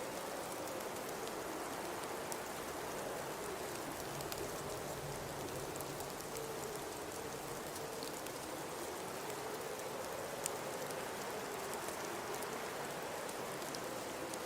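Blizzard ambience: a steady hiss of wind-driven snow under a high wind, with a howling tone that slowly rises and falls. Scattered faint ticks sit over it.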